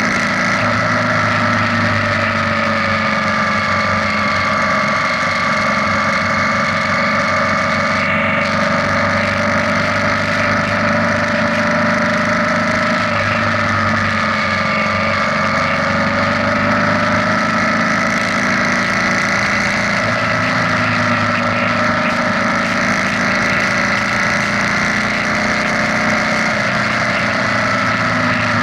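BMW R nineT's boxer twin engine running at a steady cruise inside a road tunnel, its note dipping and rising slightly now and then, over a haze of wind and road noise.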